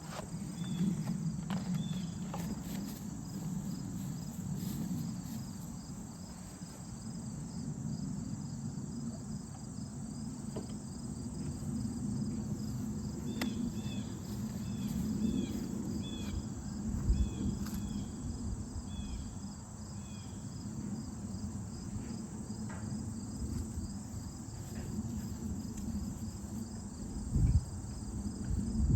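Crickets chirping in a steady, fast-pulsing high trill. A low steady hum runs underneath, with scattered sharp clicks. About halfway through comes a series of short falling chirps.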